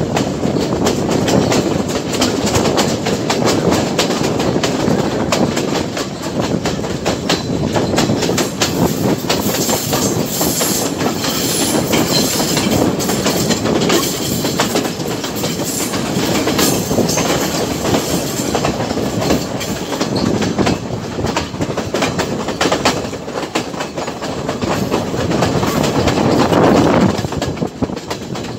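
Passenger train running along the track, heard from aboard: a steady rumble of the carriages with the clickety-clack of wheels over rail joints.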